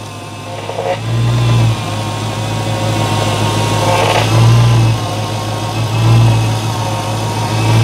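Supercharged 6.2-litre HEMI V8 of a Dodge Challenger Hellcat idling, with a low hum that swells and fades every second or two and faint steady higher tones above it. The newly replaced power steering pump is running almost quiet: the pump problem is fixed.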